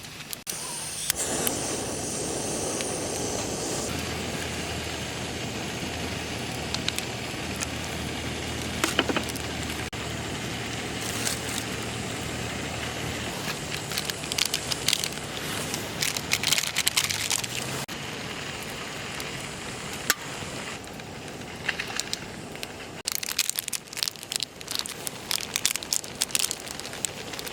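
Wood campfire crackling, with frequent sharp pops. A low steady hum runs underneath from a few seconds in until about halfway.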